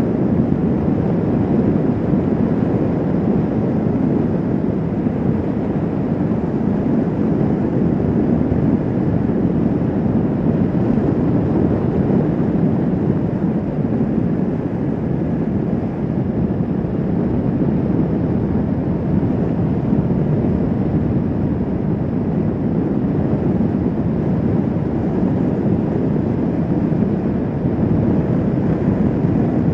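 Kawasaki Vulcan S 650 motorcycle cruising at a steady speed: a constant rush of wind on the microphone with engine and road noise under it.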